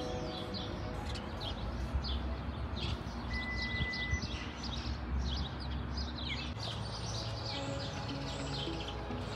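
Many small songbirds chirping and calling, with a low steady rumble underneath; soft background music comes back in past the middle.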